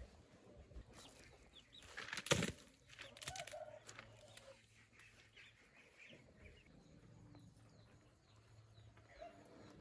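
Chickens clucking and chirping softly, with one short loud rustling clatter a little over two seconds in.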